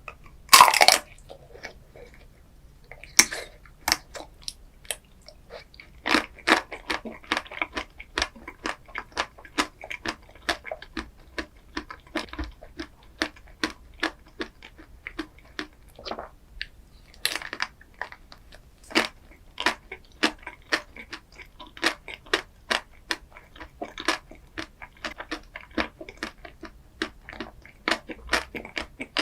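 Close-miked eating sounds: a loud crunching bite about half a second in, then steady crunchy chewing of a chocolate dessert, several crisp crunches a second.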